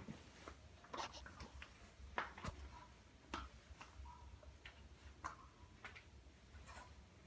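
Faint, irregular light clicks and taps from a two-month-old Labrador puppy moving about, coming unevenly up to a few times a second over a low room hum.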